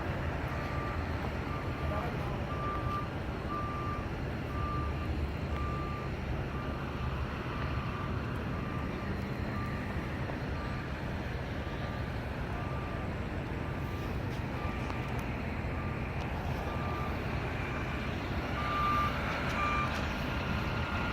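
Vehicle reverse alarm beeping steadily at one pitch, a little more than once a second, over the low rumble of idling truck engines.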